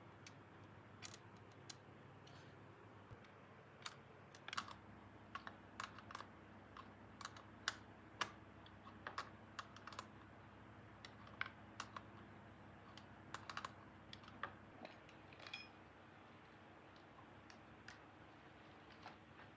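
Scattered light clicks and taps at an irregular pace, as of small hard objects being handled. A faint steady hum starts about five seconds in and stops near fifteen seconds.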